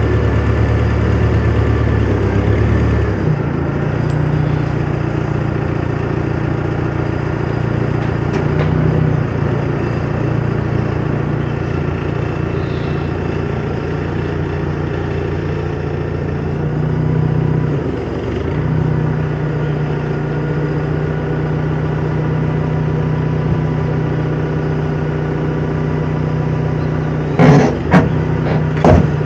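A vehicle engine running steadily, its note shifting slightly about 3 seconds in and dipping briefly around 18 seconds. Near the end, three loud knocks.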